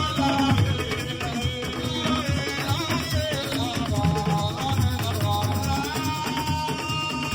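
Live Assiko band music: a steady beat of drums and percussion under held, melodic vocal lines.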